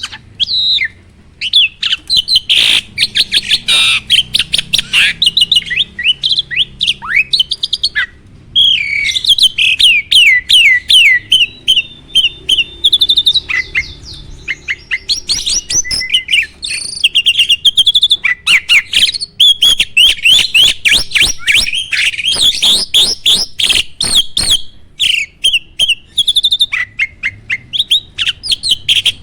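A jalak (a starling or myna) sings a long, varied chattering song of fast, repeated sweeping whistled notes, with a run of sharp clicks later on.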